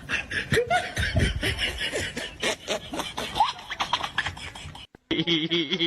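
Laughter with quick, clicky sounds for about five seconds, cut off abruptly; after the cut a held, wavering voice-like tone begins.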